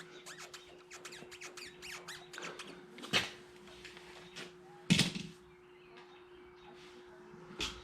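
Rubber fuel hose squeaking in quick chirps as it is twisted and worked on its fitting at the skid steer's fuel pump, followed by three sharp knocks, the loudest about five seconds in.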